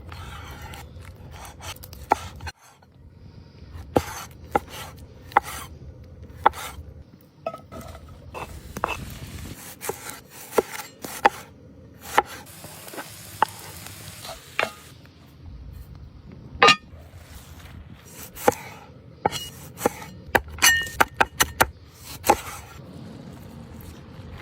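Cookware and utensils clinking and knocking at irregular intervals over a low steady background, a few strikes ringing briefly.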